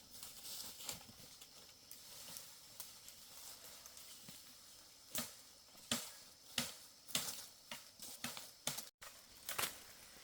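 Irregular sharp cracks and crackles of dry twigs and leaves, growing sharper and more frequent in the second half.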